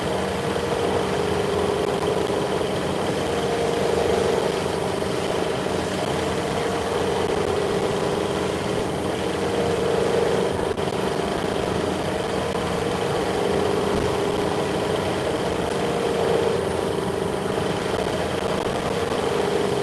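Workshop machinery running steadily: a continuous hum that swells and fades about every six seconds, with a steady high whine above it.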